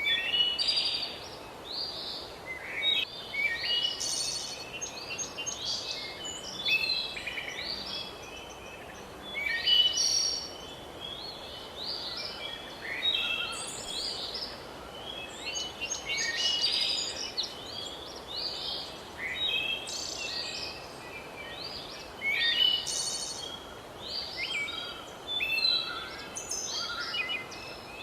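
Several birds singing at once, a dense run of overlapping chirps and trills that goes on throughout, over a steady background hiss.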